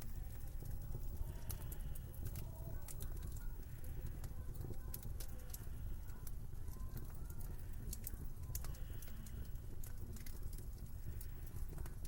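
Wood fire crackling in a fireplace, with frequent sharp irregular pops and snaps over a steady low rumble. Faint wavering whistling tones sit in the background.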